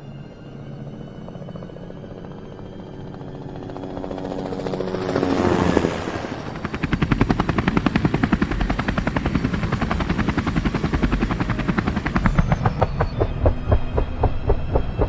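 Helicopter rotor sound effect: a rumble that swells into a rising whoosh as the helicopter comes close, then a fast, steady rotor chop with a thin high turbine whine. Near the end the whine drops away and the chop slows to about three beats a second.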